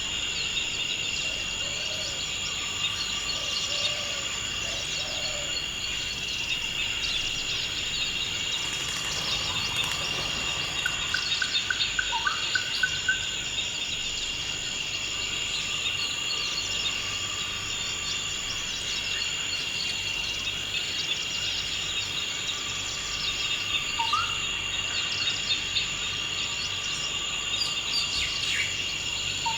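Forest ambience: a steady, high-pitched drone of insects such as crickets, with bird calls over it. Short rising chirps come now and then, and a quick trill of repeated notes comes about a third of the way in.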